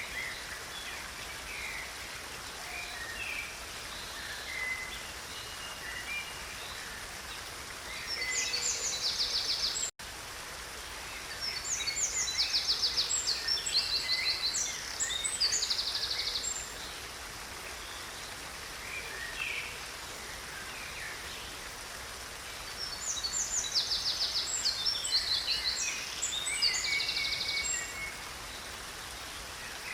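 Stream water running steadily, with a songbird singing loud, rapid high trills in three long bouts.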